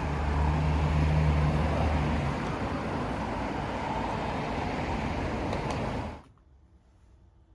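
Road traffic noise with a low vehicle engine hum, loudest in the first two seconds, cutting off abruptly about six seconds in.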